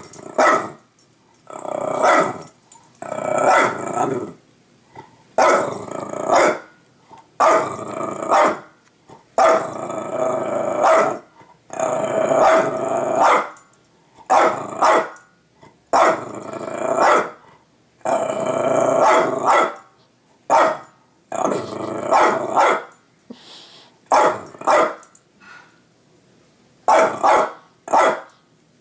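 A dog growling and barking in repeated bouts, each lasting about one to two seconds, with short pauses between them.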